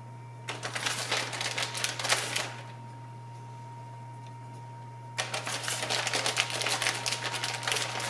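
Shredded mozzarella being shaken from its plastic bag onto a casserole: crinkling bag and falling cheese in two bursts of dense crackling, about two and three seconds long, with a pause between.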